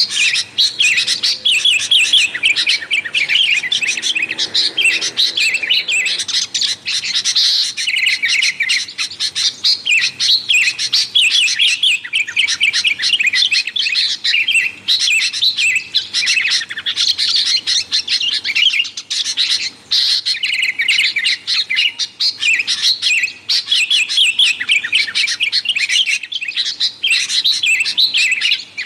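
Sooty-headed bulbuls chattering noisily: a dense, unbroken stream of short, overlapping chirps and calls.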